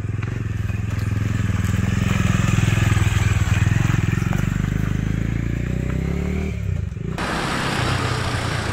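Bajaj Dominar 400's single-cylinder engine running as the motorcycle is ridden, its pitch falling as the rider eases off about six seconds in. Near the end it cuts suddenly to a different, noisier motorcycle sound.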